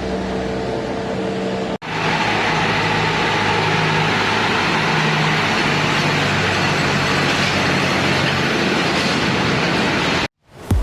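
Steady engine noise with a low hum under a broad rushing sound, broken by a brief cut about two seconds in and cutting off suddenly near the end.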